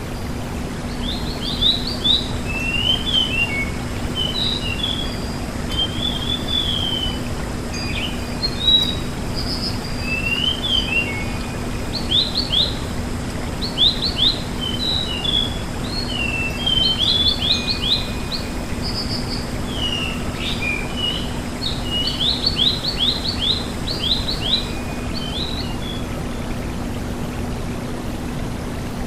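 Sulingan gunung (tledekan gunung) songbird singing a varied, fast song of short chirps, twittering phrases and rapid trills, with brief pauses between phrases. A steady low hum runs underneath.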